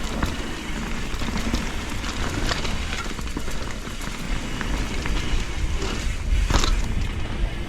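Enduro mountain bike rolling fast down a wet dirt trail: steady rushing tyre and wind noise, with the knocks and rattles of the bike over bumps, the loudest knock about six and a half seconds in.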